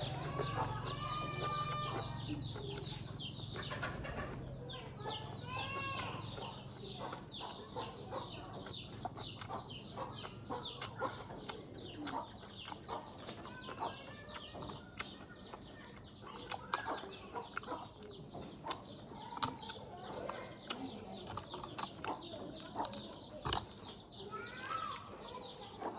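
Chickens clucking, with many short high chirps repeating throughout and a low hum during the first several seconds.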